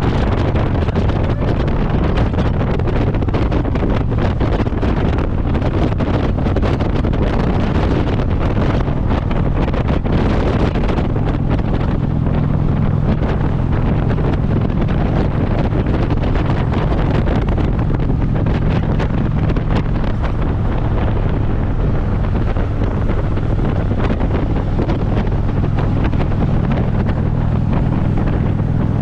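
Wind buffeting the microphone over the steady drone of a Harley-Davidson V-twin at highway cruising speed.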